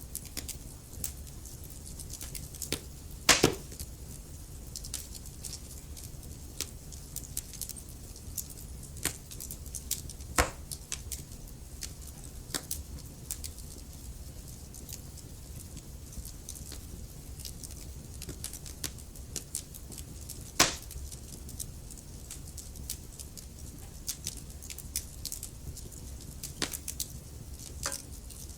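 Wood fire crackling in a fireplace: irregular small snaps and ticks over a low steady rumble, with a few louder pops about 3, 10 and 21 seconds in.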